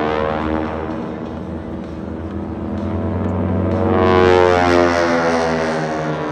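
Propeller aircraft engines passing low and fast. The pitch drops as one fades after the start, then another swells to its loudest about four seconds in and falls away with a downward pitch glide.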